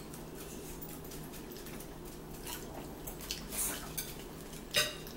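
Close-up eating sounds: chewing and wet mouth smacks on french fries, a handful of short smacks and clicks in the second half, the sharpest near the end, over a steady low hum.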